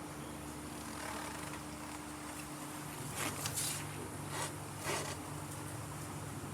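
Triumph Bonneville T100 parallel-twin engine idling steadily, with a few short, sharp higher-pitched noises between about three and five seconds in.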